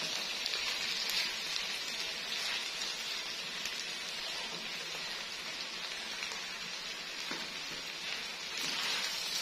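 A wok of chicken and capsicum strips sizzling steadily on the heat while boiled rice is spooned in on top, with faint small ticks in the hiss.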